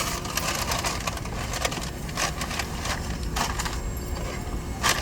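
Irregular crinkling, crackling and clattering of papers and loose clutter being handled and moved about while the inside of a pickup truck's cab is cleared out.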